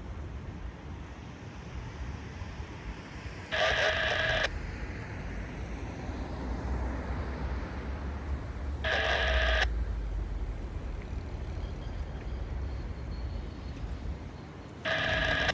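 Three short pitched blasts of a signal, each under a second and about five seconds apart, over a steady low rumble.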